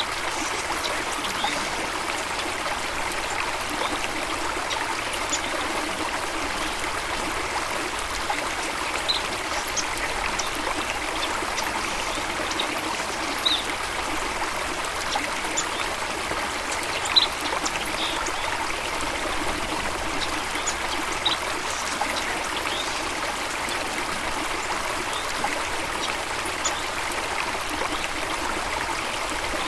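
Stream water flowing and trickling steadily, with scattered short, high-pitched ticks over the top.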